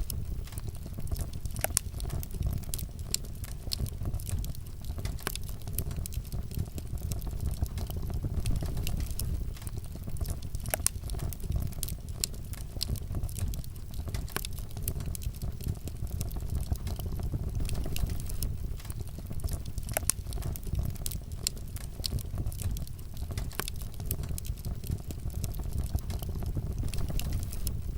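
Wood fire burning in a fireplace: a steady low rumble of flames with irregular sharp pops and crackles throughout.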